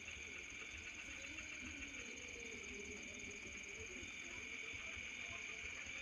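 Faint, steady, high-pitched insect chirring, as of crickets or cicadas.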